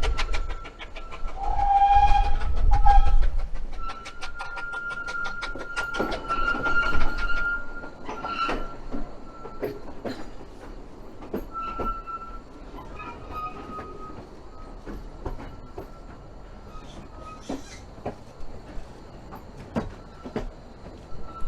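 Vale of Rheidol Railway narrow-gauge steam train running. A whistle sounds about a second and a half in for about a second and a half, then a fast, even beat follows, with a steady high squeal from the wheels throughout.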